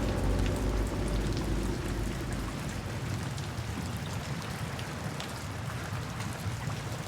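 Steady rain, an even hiss with scattered drop ticks. The low notes of the background music fade out over the first couple of seconds.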